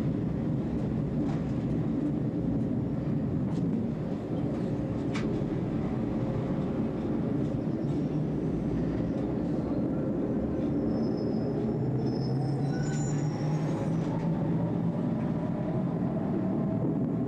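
A tram running along the track, heard from the driver's cab. There is a steady rumble with a few sharp clicks over the rail joints in the first seconds, then a brief high wheel squeal about midway. A motor whine rises in pitch toward the end.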